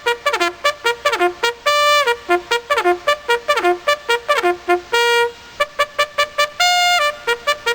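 A trumpet-like brass tune of quick short notes, each sliding down in pitch, broken by a few longer held notes: a meme sound effect.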